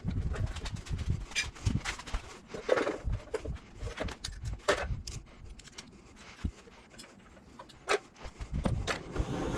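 Scattered sharp clicks and knocks, irregular, with bursts of low rumble in the first few seconds and a quieter stretch in the middle.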